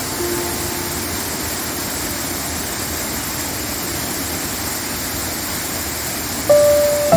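Steady roar of a waterfall with a low rumble underneath, heard in a gap in the music; a musical note comes back in near the end.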